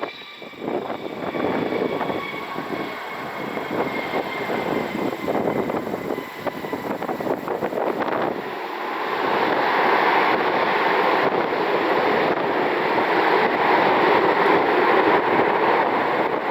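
Dassault Falcon business jet's engines rushing as it comes in, with gusty wind buffeting the microphone. The jet noise grows louder and steadier about halfway through.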